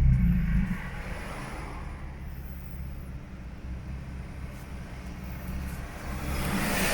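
BMW M3 engine coming down from a rev and settling to a steady idle about a second in. Near the end a rising hiss-like noise builds.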